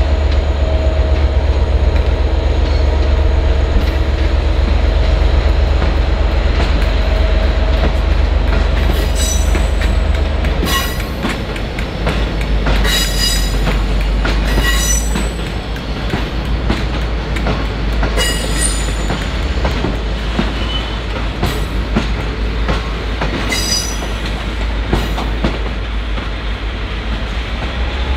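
Diesel locomotive-hauled passenger train moving slowly, with a steady low diesel rumble. From about nine seconds in come short high-pitched wheel squeals and clicks as the wheels pass over rail joints and points.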